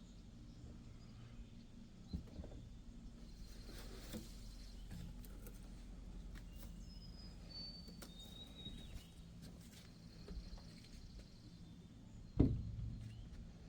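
Outdoor ambience: a steady low rumble with a few faint, short, high bird whistles in the middle, and a single sharp thump near the end.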